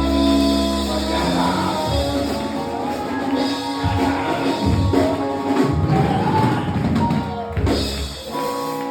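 Church band music: sustained keyboard or organ chords with drum kit hits and bass drum thumps underneath.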